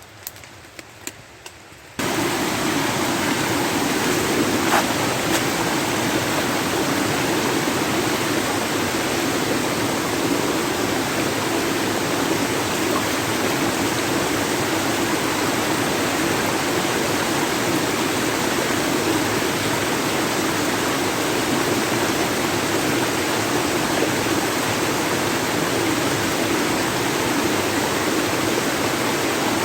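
Steady rushing of river water over rocks, starting suddenly about two seconds in after a short near-quiet stretch with a few faint clicks.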